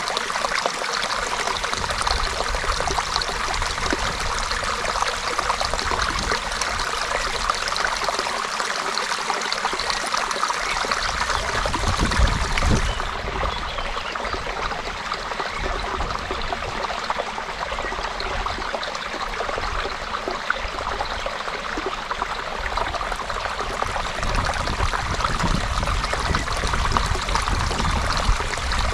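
Creek water running and trickling, a steady babbling flow.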